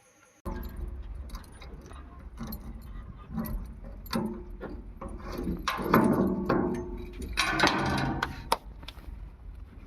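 JCB 3DX backhoe loader at work: its diesel engine runs with a low rumble while metal parts clank and rattle. The clanking is loudest in the middle of the stretch.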